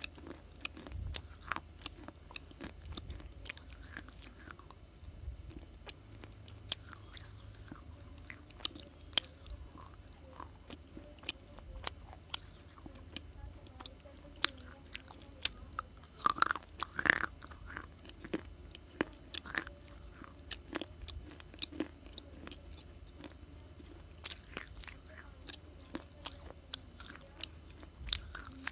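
Close-up crunching and chewing of hard, brittle baked clay: irregular sharp cracks from bites, with a louder run of crunches about midway.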